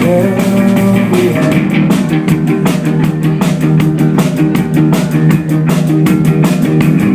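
Rock band playing live between sung lines: guitar and drum kit keeping a steady beat.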